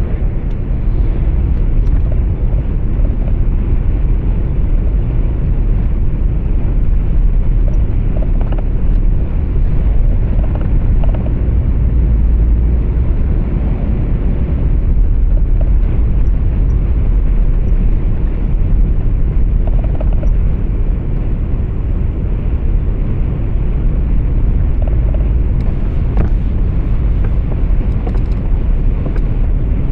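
Truck cab interior noise while driving: a steady, deep rumble of engine and road noise.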